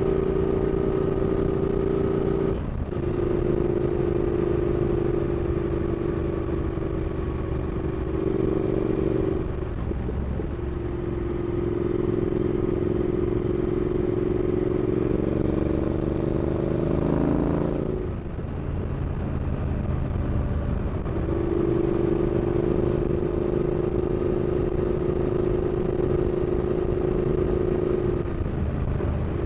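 Triumph Speed Twin's 1200cc parallel-twin engine pulling at steady revs, cut briefly about four times as gears change, with the revs climbing once before a shift about two thirds of the way through.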